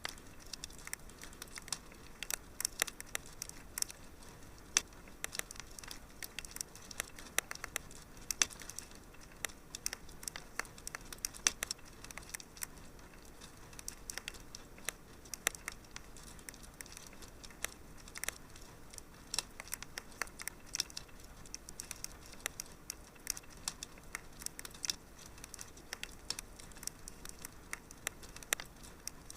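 Wood fire crackling in a fireplace: many irregular sharp pops and snaps, several a second, over a soft steady hiss.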